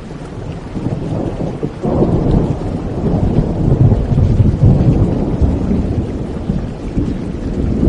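Thunder rumbling over steady rain, swelling sharply about two seconds in and slowly fading away.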